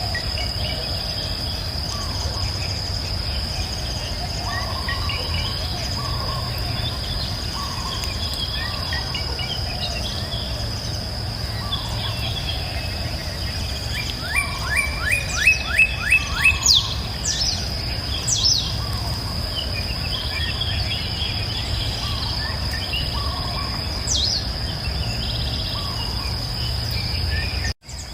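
Outdoor nature soundscape: a steady high-pitched insect drone and scattered bird chirps over a low steady rumble of flowing water. About halfway through, a bird gives a louder trill of about eight quick falling notes. Near the end the sound cuts out for a moment.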